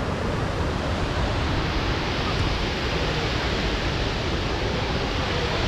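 Shifen Waterfall's falling water: a loud, steady rush of noise with no let-up.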